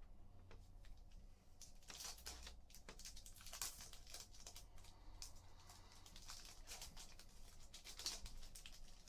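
Faint rustling and crinkling of Panini basketball trading cards and their pack wrappers being handled and flipped through, in a run of short soft swishes.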